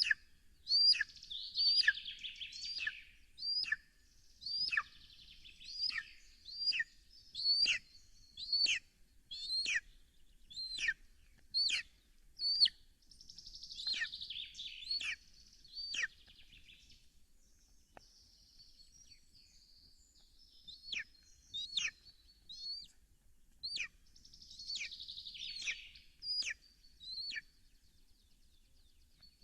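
Birds calling: a short, sharp call that sweeps down in pitch, repeated about once a second, with bursts of high warbling song in between. The calls thin out after the middle and stop near the end.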